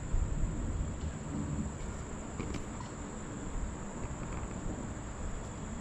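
Insects droning outdoors in one steady high-pitched note, over a low rumble.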